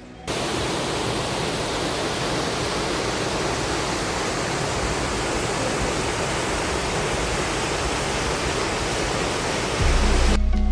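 Hindmarsh Falls in full flow after heavy rain: a steady rush of falling water that cuts in abruptly just after the start. Near the end a loud low steady hum comes in and the water sound cuts off.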